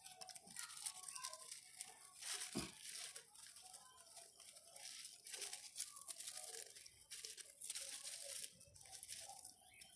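Faint crinkling of paper and gritty crunching as fingers crush a piece of a dismantled firework's compound against rough concrete, in short irregular crackles.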